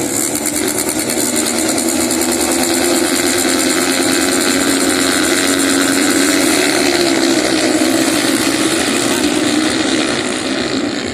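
Motocross motorcycle engines running hard at high revs as the bikes race past. The sound is loud and steady, easing off near the end.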